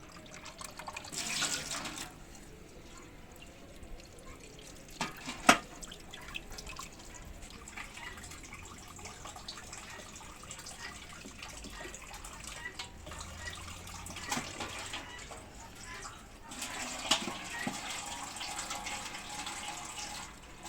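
Water running and splashing in two stretches, with small clicks and a sharp clatter about five seconds in.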